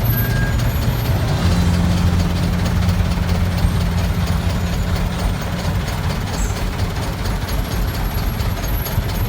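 Heavy vehicle engine running steadily with a low hum.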